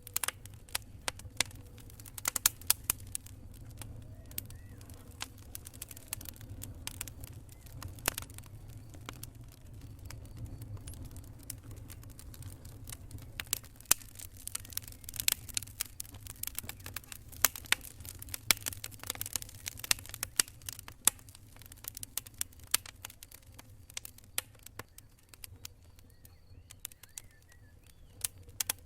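Wood campfire crackling: irregular sharp pops and snaps, busiest in the middle and thinning out near the end, over a low steady rumble.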